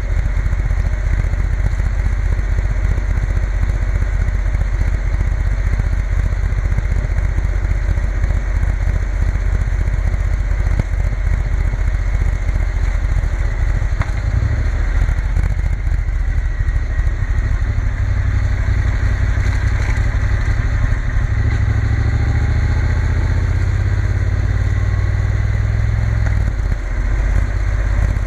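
Triumph Bonneville T120 parallel-twin engine running under way, mixed with a steady rush of wind and road noise; the engine note settles into a steadier drone about halfway through.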